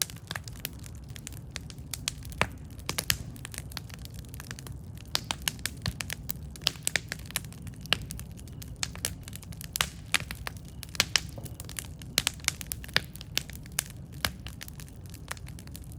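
Campfire burning: irregular sharp crackles and pops from the burning wood over a steady low rumble of the flames.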